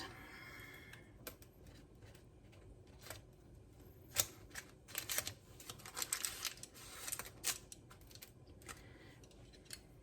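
A spatula scraping and tapping against the bowl and baking pan while spreading thick brownie batter: scattered short scrapes and clicks, the sharpest about four seconds in and a cluster of them a second or so later.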